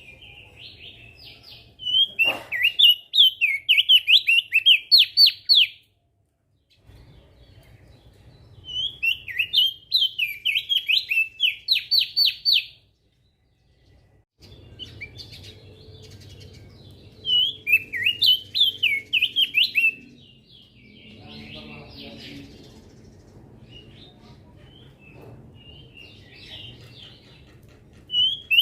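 Crested dark-eye (opior jambul) singing: three loud phrases of rapid, high, sweeping notes, each a few seconds long, with softer twittering between them.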